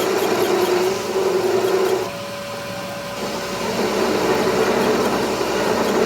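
A machine running steadily. It eases off about two seconds in and picks back up a couple of seconds later.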